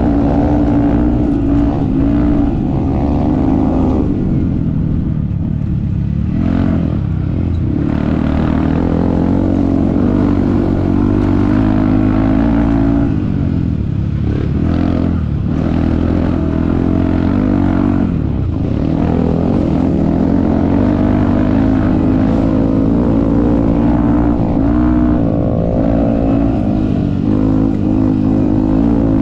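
Yamaha WR155's single-cylinder four-stroke engine working hard off-road, its note rising and falling with the throttle. It drops sharply about four seconds in, climbs back, and dips again several times later.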